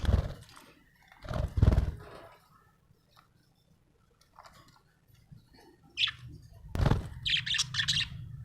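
Budgerigar chirping: a short chirp about six seconds in, then a quick run of high chirps near the end. Three loud, deep thumps come at the start, about a second and a half in, and just before the run of chirps.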